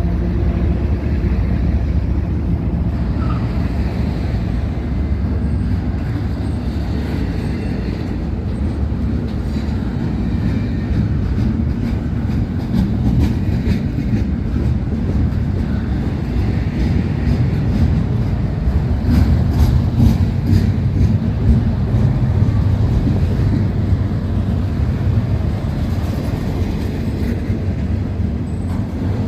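Norfolk Southern freight train rolling past: a steady low rumble of cars on the rails, with scattered wheel clicks through the middle stretch.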